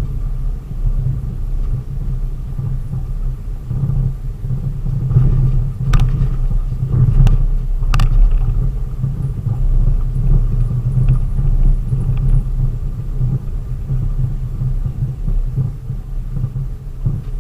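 Steady low rumble of a vehicle driving, as heard from inside the cab, with three sharp clicks or knocks about six, seven and eight seconds in.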